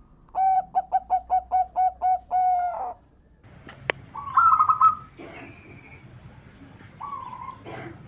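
Zebra dove (perkutut) song: a run of about eight short, evenly spaced cooing notes ending in one longer note. This is followed by a sharp click and a quick burst of higher chirping notes, the loudest part, then a few fainter scattered calls.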